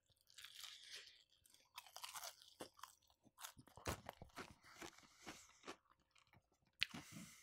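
A person chewing crispy Popeyes fried chicken: faint, irregular crunches and mouth sounds.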